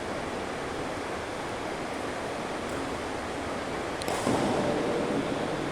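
Steady, even noise of a badminton hall, with one sharp knock about four seconds in, after which the background grows a little louder.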